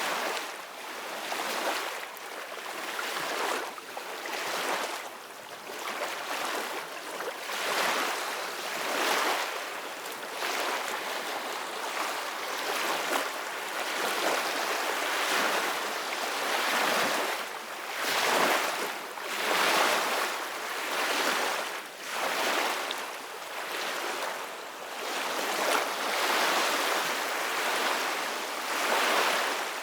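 Ocean surf breaking and washing on a beach: a continuous hiss of water that swells and eases every couple of seconds.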